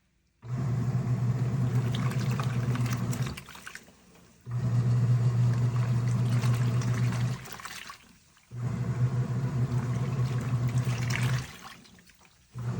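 Compact fully automatic washing machine running its wash cycle: the motor hums and churns the water in runs of about three seconds, with pauses of about a second between them. This on–off pattern is how the drum is agitated back and forth.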